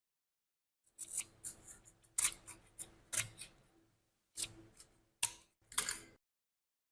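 A hand tool working on rusty metal parts: about eight short, sharp scraping strokes at uneven intervals, starting about a second in.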